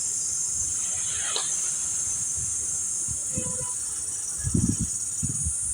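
Steady high-pitched insect chorus, like cicadas or crickets, with a few low thumps near the end.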